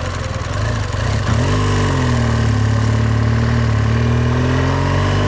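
BMW R1200 GS boxer-twin motorcycle engine running under way. It picks up revs about a second in, then holds a steady pitch.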